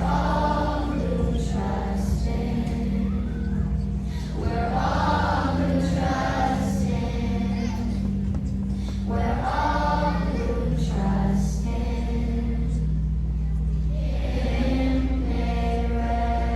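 A children's choir singing with musical accompaniment, in phrases of a few seconds each over steady low sustained notes.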